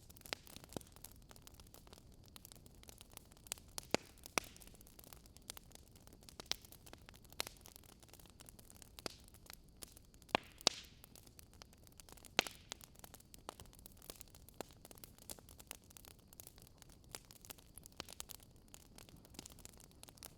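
Faint crackling campfire: irregular sharp pops and snaps over a steady low hiss.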